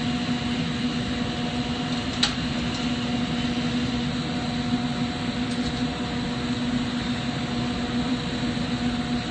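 Steady machine hiss with a constant low hum, the running equipment of a glass lampworking shop (torch and ventilation), broken once by a short click about two seconds in.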